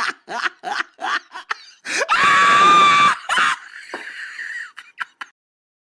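A person laughing in quick repeated bursts, then a loud, high-pitched scream about two seconds in that lasts about a second, followed by a few shorter cries. All sound cuts off abruptly a little after five seconds.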